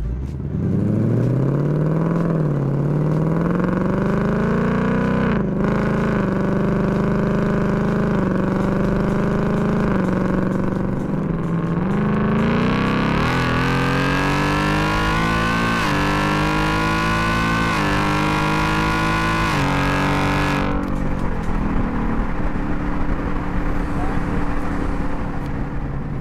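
2021 Ford Mustang GT's 5.0-litre V8 with its active exhaust in sport mode, accelerating and shifting up through the gears. It pulls up in pitch with a drop at each upshift, then from about halfway revs harder through several quick upshifts before the throttle is lifted suddenly, leaving a lower, steady cruising note.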